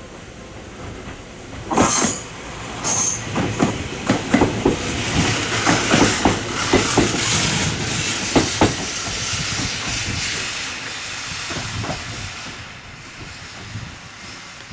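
Electric train moving along the platform track, its wheels clacking over the rail joints in a quick, dense run that fades near the end. Two short, sharp hissing bursts come about two seconds in.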